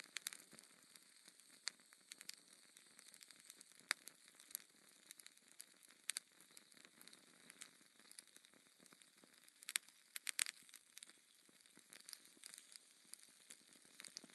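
Near silence: faint hiss with sparse, scattered little clicks and crackles, a short cluster of them about ten seconds in.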